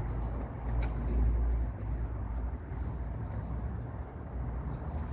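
Wind buffeting the microphone: a low, gusting rumble, strongest over the first two seconds, with a faint click about a second in.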